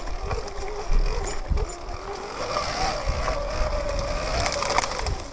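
Sur-Ron electric dirt bike riding a trail: the motor's whine wavers with the throttle and climbs in pitch about two and a half seconds in, with scattered knocks and rattles.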